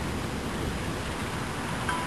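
Heavy rain falling in a steady hiss during a thunderstorm, with a low rumble underneath.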